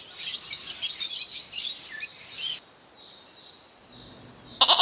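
Small birds chirping in a rapid, dense chatter for about the first two and a half seconds, then fading to a faint thin high tone. Near the end a loud bleat starts.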